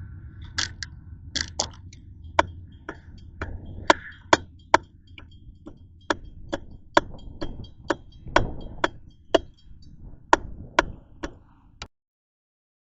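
Passing train's wheels clicking over rail joints: a string of sharp clicks, two to three a second and somewhat uneven, over a low rumble. It cuts off suddenly near the end.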